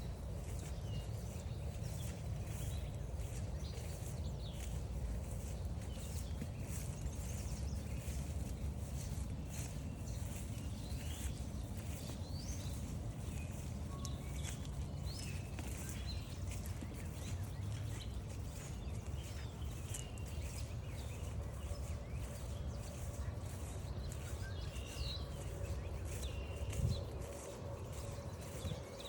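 Footsteps crunching steadily along a forest trail over a low rumble, with scattered short bird chirps and calls in the background. A single thump near the end.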